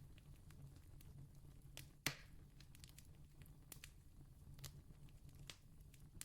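Campfire crackling quietly with scattered sharp pops, one much louder snap about two seconds in, over a faint low steady rumble.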